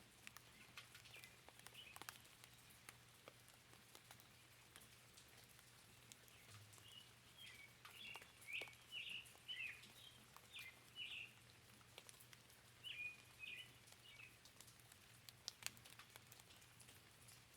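Faint forest rain ambience: scattered raindrops tapping and dripping, with songbirds chirping in short quick runs of notes, busiest in the middle of the stretch, over a faint steady low hum.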